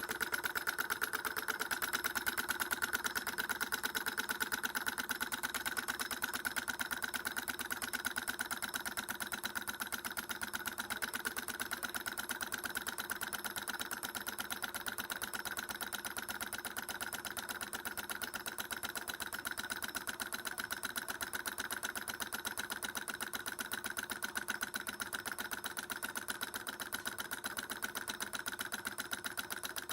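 Small homemade Stirling engine running, a fast, steady mechanical clatter of rapid even clicks that keeps an unchanging pace.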